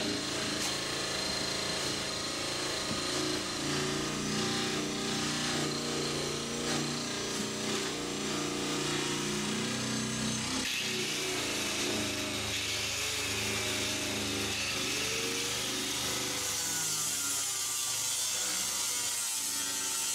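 Power grinder running steadily against a fiberglass hull, sanding it back to bare glass, its pitch shifting now and then.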